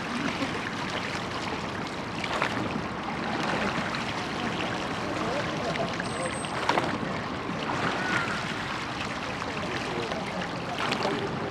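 Water rushing and splashing along the hull of a church rowing boat under way, with a few sharper splashes.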